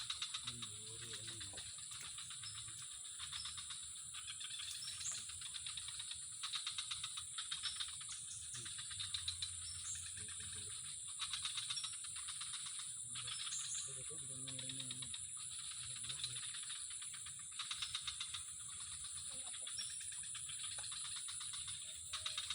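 Rapid rattling chirps in short bursts, repeating every second or two over a steady high-pitched hiss, with faint low voices now and then.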